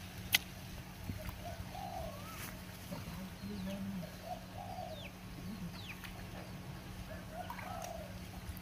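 Birds calling repeatedly: short chirps, some falling high notes and a few lower calls, over a steady low hum. One sharp click comes just after the start.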